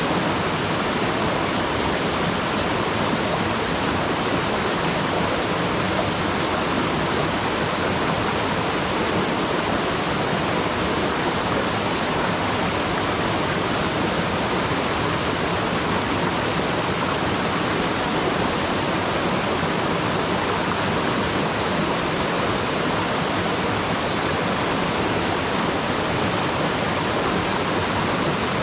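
A waterfall rushing steadily, an even, unbroken roar of falling water.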